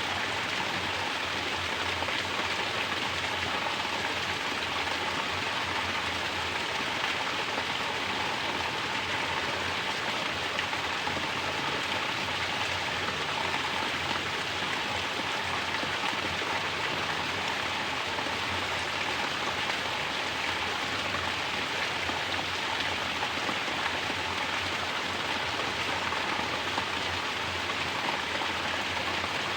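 Mountain water pouring down as a natural shower, splashing in a constant, unbroken rush.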